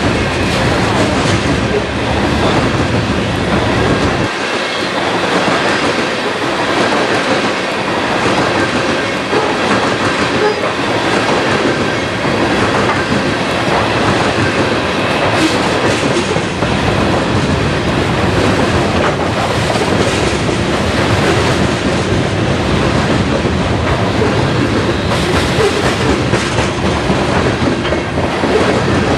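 Freight train's open-top hopper cars rolling past close by, the wheels clacking over rail joints in a steady, loud rumble.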